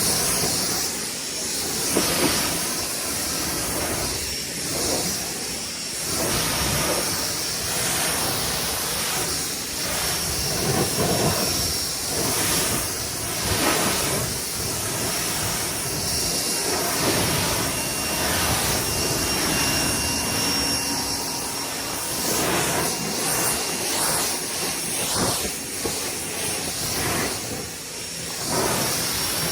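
Ryobi 1600 psi electric pressure washer spraying a jet of water to rinse soap off cars: a steady hiss of spray that swells and fades as the jet moves over the surfaces.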